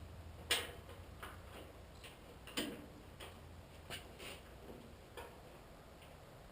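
About a dozen light, sharp taps and clicks at irregular intervals, the loudest about half a second and two and a half seconds in, as of hand tools handled during sheet-metal work.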